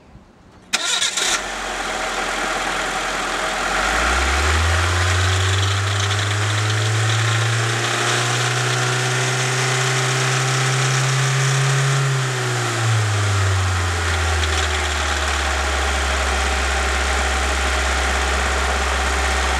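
A 1996 Mitsubishi Lancer's petrol engine, running with no oil and with its sump and rocker cover off, starts up about a second in and idles briefly. Its revs climb at about four seconds, hold, then drop back to a steady speed a little above idle that it holds to the end.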